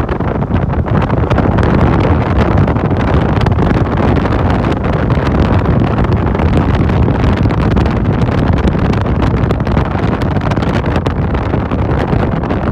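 Wind buffeting and rushing over the microphone of a rider on a moving motorcycle taxi, loud and steady, with the motorcycle's running and road noise mixed in underneath.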